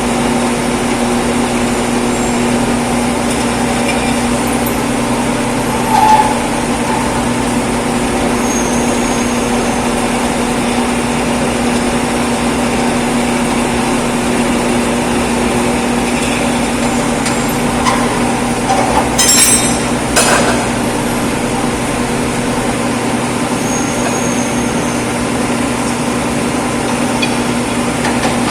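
A power tool's electric motor running steadily at one constant speed with an even hum, with a few short knocks about six seconds in and twice around two-thirds of the way through.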